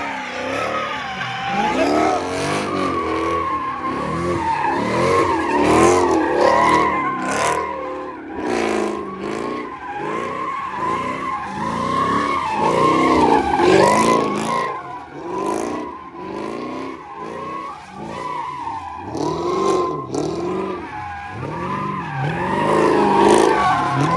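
A car doing donuts or a burnout: the engine revs up and down again and again while the tires squeal steadily against the pavement.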